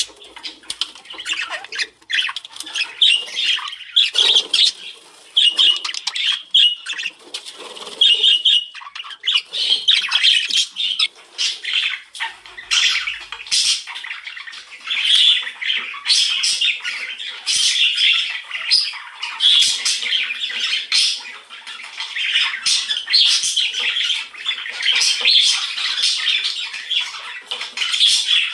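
A chorus of several wild birds chirping and calling, with many short, overlapping calls one after another.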